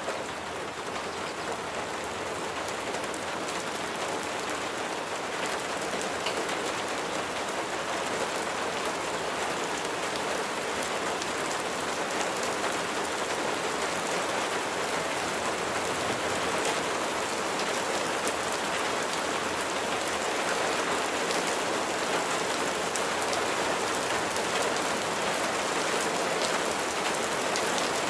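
Steady rain falling on a surface, an even hiss with scattered individual drop ticks, growing slightly louder.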